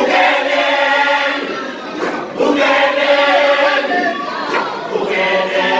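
A cappella vocal group singing isicathamiya, several voices holding chords in close harmony, with a short break about two seconds in before the next chord.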